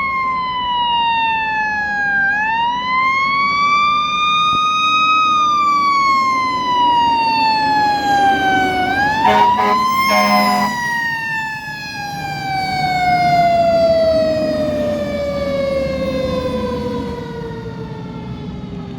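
Emergency vehicle siren on a slow wail, its pitch rising and falling and then dropping steadily over the last several seconds, over a truck engine's rumble. About nine to eleven seconds in, a quick cluster of short sharp blasts cuts across it.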